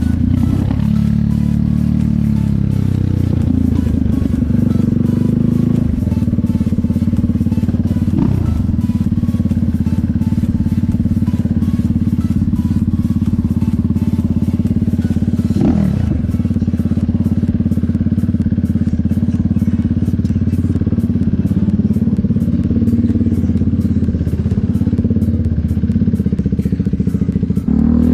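KTM motorcycle engine running under way at fairly steady revs, with a few brief changes in pitch as the revs shift.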